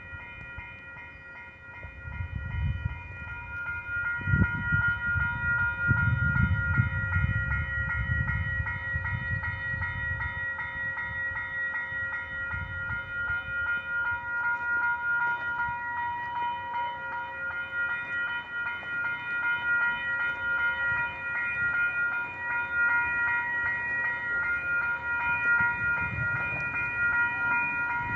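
Level-crossing warning bell ringing steadily and rapidly, the crossing signals staying active while a stopped freight train blocks the crossing. A low rumble swells under it a couple of seconds in and eases off after about ten seconds.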